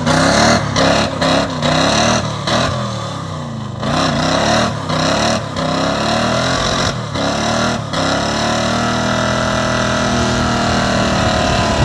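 Ford 460 big-block V8 in a 1969 F100 revving hard during a burnout, the revs rising and falling over and over, then held high and steady for the last few seconds.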